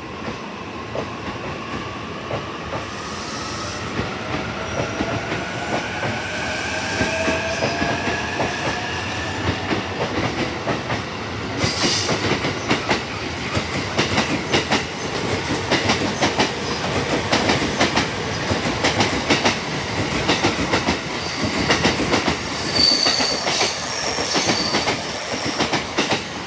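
JR East E231/E233-series electric commuter train pulling out and accelerating. Its motors give a rising whine over the first ten seconds, then the wheels set up a rapid clickety-clack over the rail joints as the cars pass. Brief high wheel squeals come near the end as the train takes the curve.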